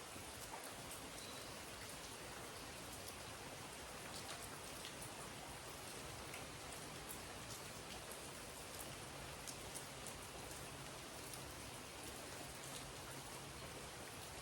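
Steady rain falling, with scattered individual drops ticking through the hiss. A faint low hum joins about nine seconds in.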